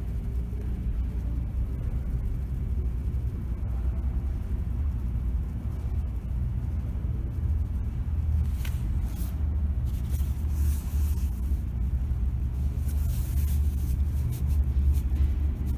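Low rumble of a subway train in the station, growing louder, with stretches of high hissing in the second half.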